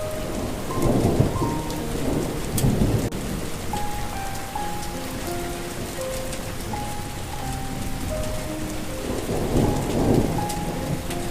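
Steady rain with thunder rumbling three times: about a second in, again around two and a half seconds, and once more near the end. Underneath runs a slow melody of single held notes.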